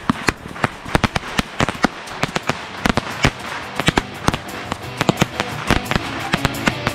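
Ground-launched fireworks going off: a rapid, uneven string of sharp bangs and crackles, several a second.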